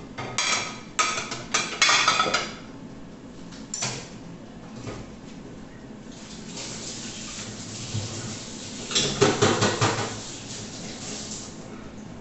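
Dishes and cutlery clattering as they are handled, in two bouts of rapid clinks: one in the first couple of seconds and another about nine seconds in, with a steady hiss between them.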